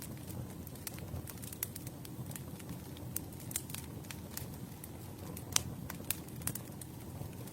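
Campfire burning, with a steady low rumble of flames and irregular sharp crackles and pops from the wood, one louder pop about five and a half seconds in.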